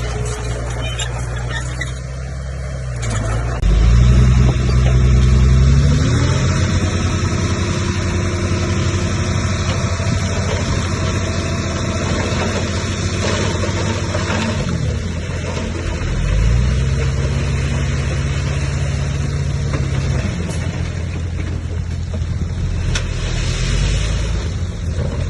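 Komatsu bulldozer's diesel engine working under load, speeding up a few seconds in and holding high, dropping back, then speeding up again about two-thirds of the way through and once more near the end.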